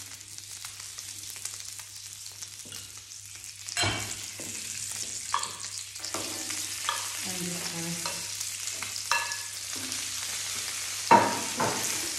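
Langoustines sizzling in hot olive oil in a wide enamelled-steel paella pan, the frying hiss growing louder once they start going in about four seconds in. Several sharp knocks as the metal tongs set each one down on the pan, the loudest near the end.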